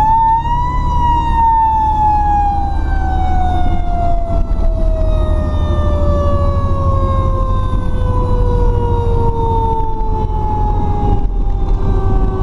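Fire truck's mechanical siren (a Federal "Q") peaking about half a second in, then winding down in one long, slowly falling wail. A steady low engine rumble runs underneath.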